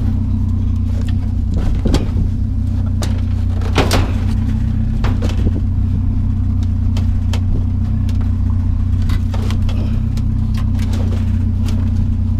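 A vehicle engine idling steadily, with scattered knocks and clanks from metal being handled, the sharpest about two and four seconds in.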